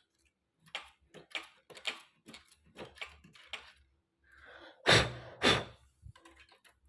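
Seam ripper picking and scraping at a sewing machine, a series of small sharp ticks and scratches, with two louder knocks about five seconds in.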